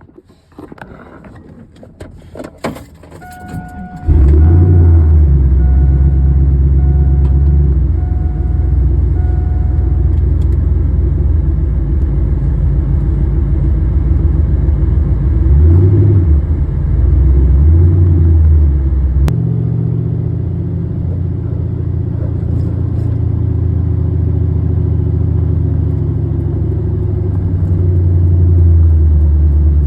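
Keys jingle, then a car engine starts about four seconds in and runs steadily, with a dashboard warning chime beeping in evenly spaced pips for several seconds. The engine is briefly revved twice, about halfway through.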